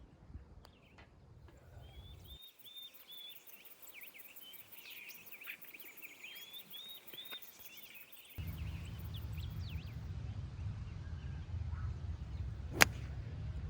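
Birds chirping, then a steady low rumble from about eight seconds in. Near the end comes a single sharp crack, the loudest sound: a hickory-shafted golf club striking a gutty golf ball.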